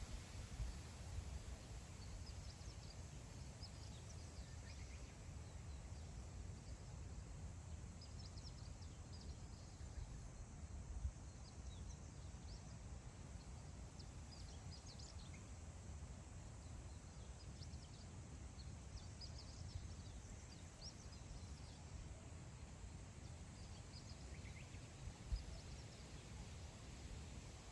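Wind, heard as a steady low rumble, with faint short high bird chirps scattered throughout.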